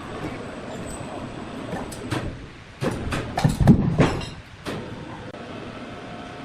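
Sawmill machinery running steadily, with a burst of loud knocks and clattering from about two to four and a half seconds in.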